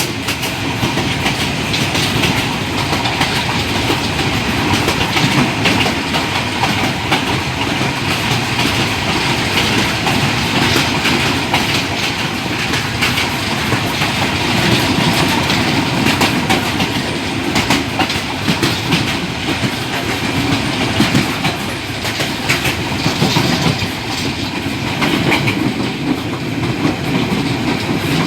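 Old passenger train running along the track, heard from on board: a steady loud rumble of the moving carriage with frequent irregular knocks and clacks from the wheels and couplings.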